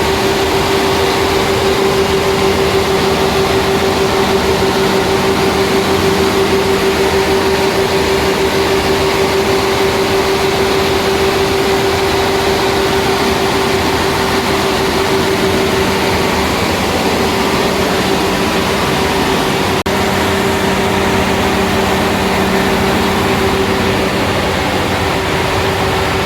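Scania 360 hp diesel engine running steadily at a constant speed, with a strong, even hum.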